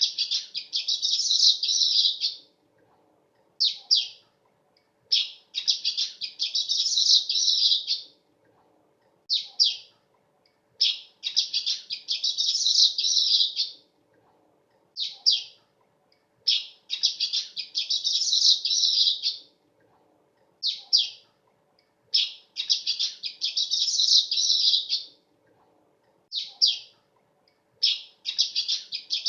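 Manyar weaver bird singing: one or two short sharp chirps, then a long dense, high chattering phrase of about two and a half seconds, repeated roughly every six seconds.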